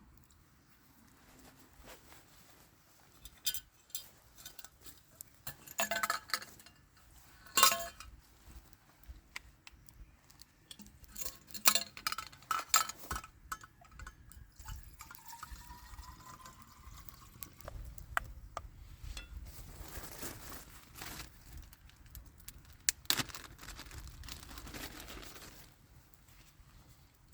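Camp cookware clinking and knocking in scattered strikes, with liquid poured into a vessel midway, its pitch rising as it fills.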